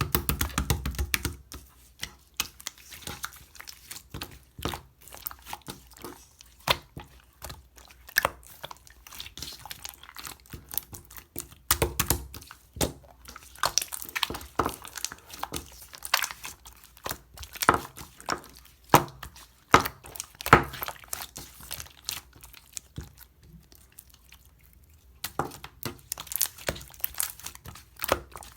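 Clear slime being squished and pressed by hand, making irregular sticky pops and crackles, with a quieter pause a little over two-thirds of the way through.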